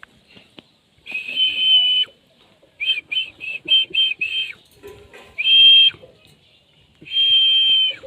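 Indian ringneck parakeet giving loud, high whistle-like calls: one long call, a quick run of six short notes, then two more long calls.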